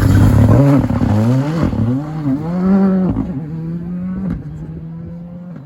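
Rally car engine at full throttle going past, loudest at the start, its pitch climbing and dropping several times as it revs through the gears, then holding a steadier note that fades as the car drives away.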